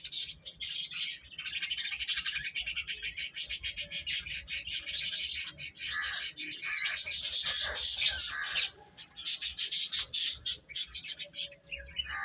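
A brood of baby chicks peeping together in a dense, rapid chorus of high chirps, which stops about a second before the end.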